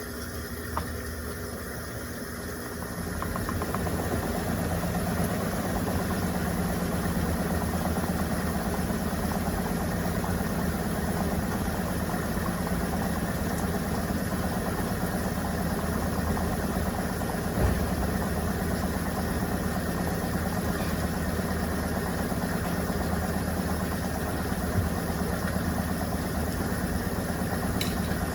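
Electrolux Turbo Compacta 7 kg top-loading washing machine running with a steady motor hum that comes up about three and a half seconds in. A couple of faint knocks are heard later on.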